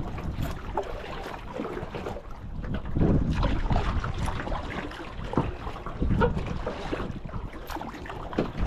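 Wind gusting across the microphone as a squall comes in, with rumbling buffets that swell noticeably about three seconds in and again about six seconds in.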